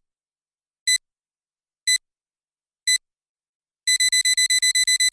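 Electronic beeping at one high pitch, like a digital alarm clock: three single beeps about a second apart, then from about four seconds in a rapid run of beeps, about eight a second.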